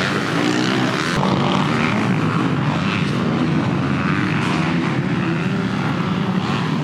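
Dirt bike engines running, a steady loud buzz wavering in pitch as the throttle changes.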